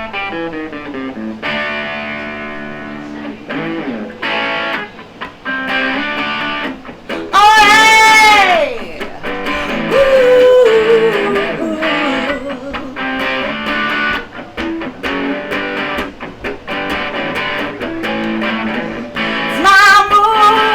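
Guitar playing the instrumental intro of a rock song, chords and notes with several long, wavering high held notes; the loudest comes about eight seconds in.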